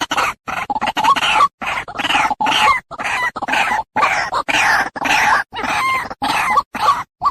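White-breasted waterhen (ruak-ruak) calling: a fast string of harsh, croaking notes, about two to three a second, each cut off with a clean gap of silence between, as in a looped trapping lure call. The notes grow shorter and sparser near the end.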